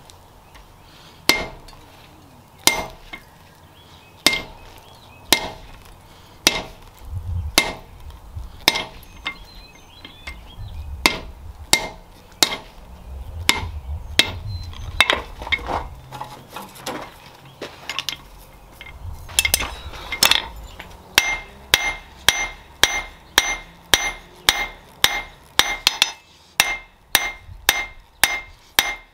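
Hand hammer striking steel on an anvil, each blow ringing. The blows come about one every second and a half at first and quicken to about two a second near the end. A low rumble runs underneath through the middle stretch.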